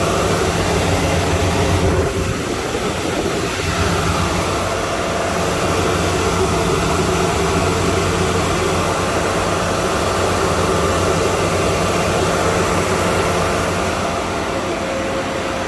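Several Antminer ASIC crypto miners' cooling fans running at full speed: a loud, steady whir with a few constant hum tones underneath.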